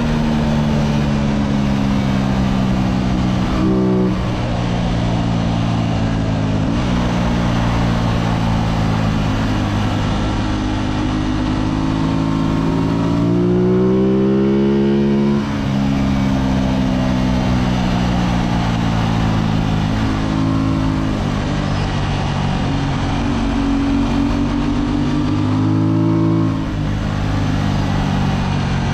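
Racing motorcycle engine on track, revving up and down as it accelerates and slows through corners. The pitch climbs under throttle and drops sharply at several gear changes, with the longest climb about halfway through, over steady wind and road noise.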